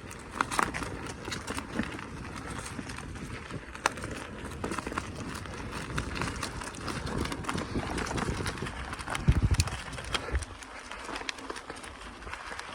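Bicycle rolling over a rough forest track: tyre noise with frequent rattles and knocks from the bike. A heavy low thump comes about nine seconds in, after which the low rumble eases off.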